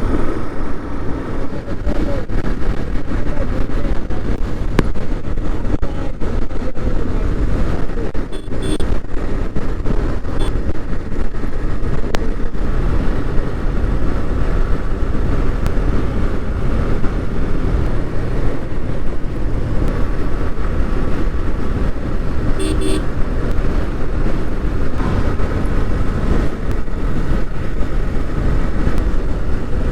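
Motorcycle running at road speed, its engine and a heavy wind rumble on the rider's microphone, with other vehicles' horns tooting briefly a few times.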